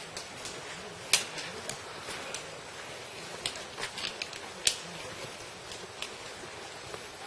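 Irregular sharp footsteps on a stony trail, over the steady rush of a mountain stream.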